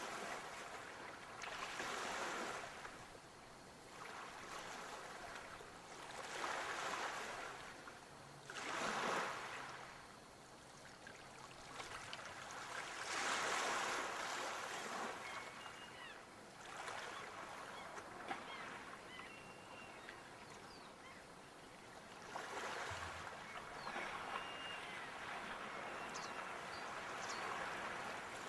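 Sea waves washing onto the shore, each surge swelling and falling back every few seconds.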